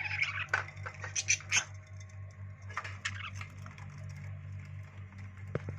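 Pet birds making soft short chirps and scattered clicks, over a steady low hum.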